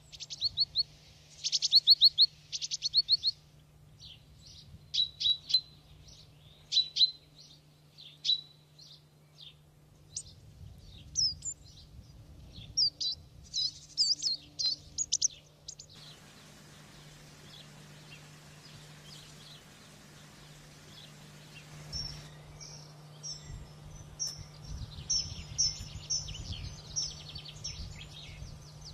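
Canaries singing in quick high trills and chirps, broken into bursts. The song falls quiet for several seconds past the middle, then resumes as denser chirping over a faint low hum.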